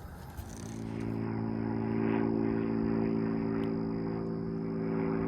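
A steady, low, engine-like hum at an even pitch that starts about half a second in, with a faint thin high whine above it.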